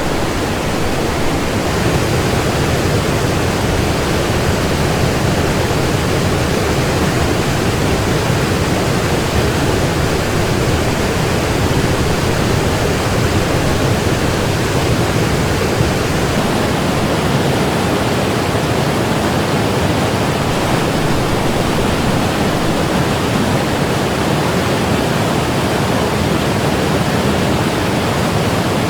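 The white water of the Kolvitsa River, a fast northern river full of rapids, rushing loudly and steadily.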